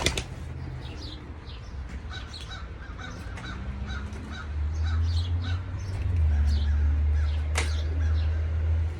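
Birds calling: a short call repeated about twice a second, with scattered higher chirps over it. Under them runs a low steady rumble that grows louder about halfway through.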